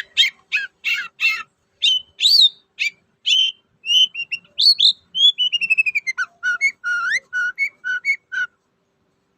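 Long-tailed shrike (cendet) singing a varied, chattering song: harsh rasping notes at first, then clear whistles, a falling trill near the middle, and a quick run of repeated short rising notes that stops about a second before the end.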